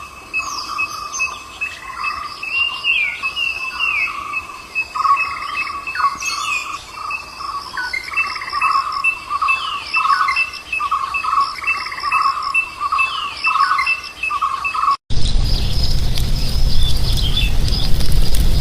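Birds calling together: rapid repeated chirping notes with short falling whistles over them. About fifteen seconds in, it cuts abruptly to a louder, rumbling noise with high chirps on top.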